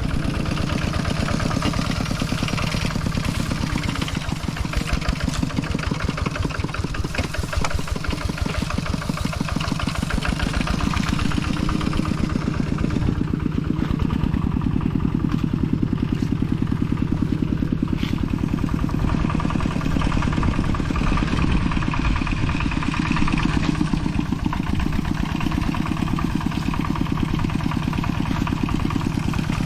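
A large vehicle's engine running steadily at close range, with an even, rapid pulsing that holds throughout.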